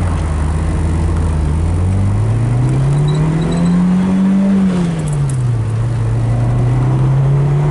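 1991 Lotus Elan's turbocharged 1.6-litre four-cylinder engine pulling hard from first gear, its note rising steadily, dropping sharply at an upshift about five seconds in, then climbing again.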